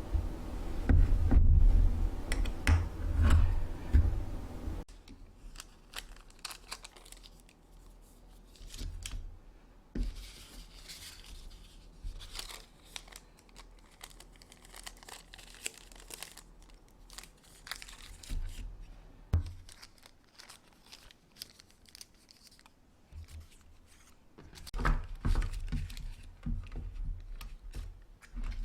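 Plastic bags and food wrapping crinkling and tearing, with scattered clicks and knocks of containers being handled. The first few seconds are louder, with heavy low thudding handling noise, and there is another louder stretch of handling near the end.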